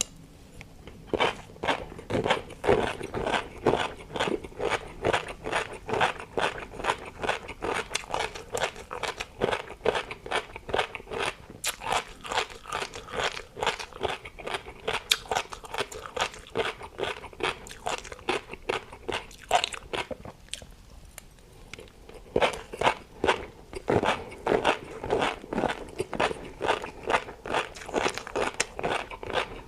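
Close-miked chewing of crunchy food, a person biting and crunching in quick, even strokes, with a short pause about twenty seconds in.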